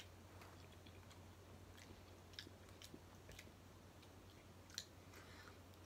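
A person quietly chewing a bite of chicken, with a few small scattered clicks and ticks over a faint low hum.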